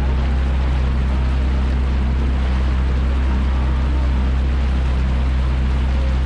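Yamaha jet ski engine running at a steady speed: a constant low drone over the rush of water, with no change in revs.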